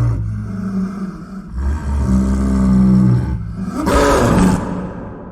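A leopard growling and roaring in a run of long, low calls one after another, fading out near the end.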